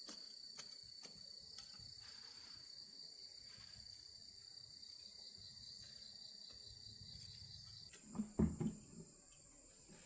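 Insects trilling steadily in a high, even tone; one trill stops about eight seconds in while a higher one carries on. A few dull thumps near the end are the loudest sounds.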